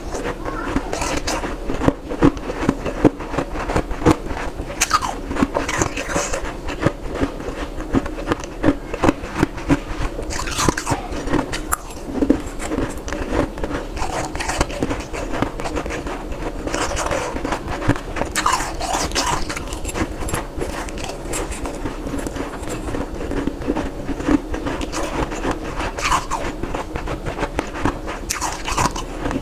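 Ice being bitten and chewed, a rapid, irregular run of crunches that goes on throughout.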